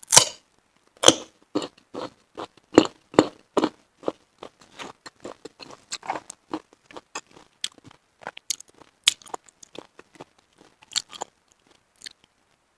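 Close-miked chewing of cooked mountain snail meat, a run of crisp, wet crunches at an uneven pace. The crunches are loudest over the first few seconds and grow softer and sparser after that.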